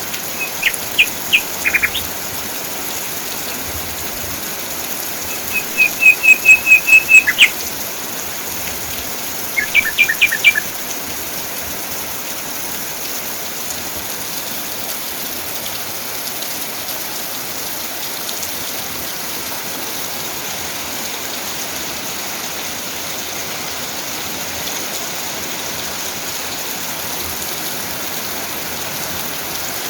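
Steady rain falling, with a bird singing three short phrases of quick repeated notes in the first eleven seconds or so. The middle phrase is a run of about nine notes.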